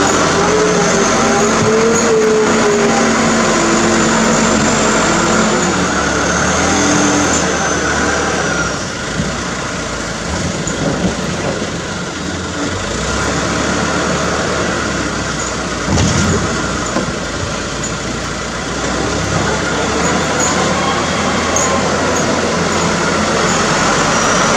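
Hino truck's diesel engine running under a load of cassava, its pitch rising and falling over the first several seconds, then a rougher, noisier stretch with a brief knock about two-thirds of the way through.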